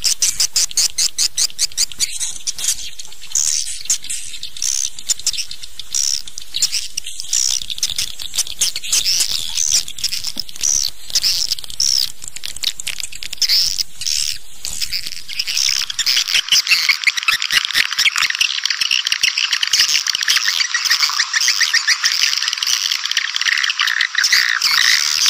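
Swiftlet calls of the kind played to lure swiftlets to a nesting house: a fast run of short, evenly repeated high chirps. About two-thirds of the way through they turn into a denser, continuous twittering chatter.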